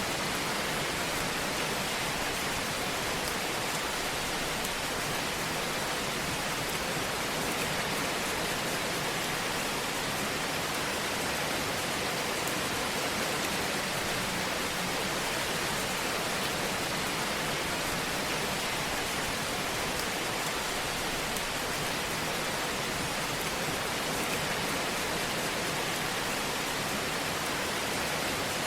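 Fire burning in a fireplace: a steady hissing rush with faint, scattered crackles.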